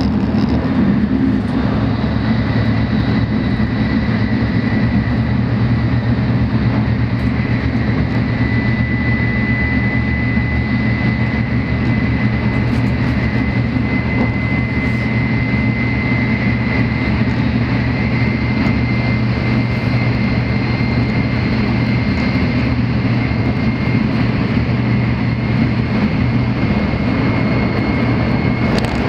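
Steady cabin noise of a Tokaido Shinkansen train running at speed: an even low rumble with a faint steady whine above it.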